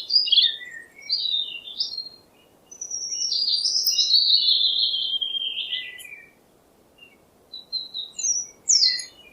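A songbird singing: quick chirpy phrases, then a long warbling phrase that slides down in pitch, then a few more short chirps near the end.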